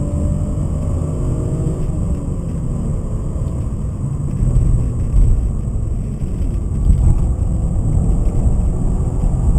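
BMW 528i's M52B28 2.8-litre straight-six engine pulling at speed, heard from inside the cabin under a steady heavy rumble of road and wind noise.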